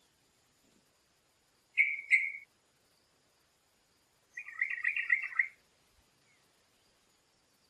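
A bird calling: two short chirps about two seconds in, then a quick chattering phrase of rapid notes lasting about a second.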